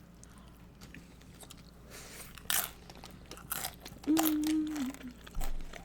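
Crunching bites into loaded nacho tortilla chips, a few sharp crunches with chewing in between, and a hummed "mmm" about four seconds in.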